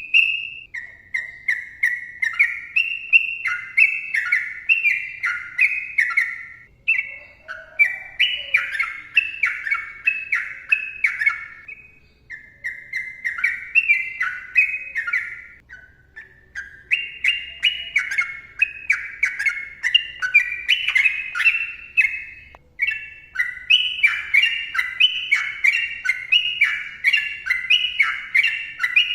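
Sooty-headed bulbul singing long, rapid runs of clear whistled phrases, each a quick series of notes stepping up and down, broken by two short pauses.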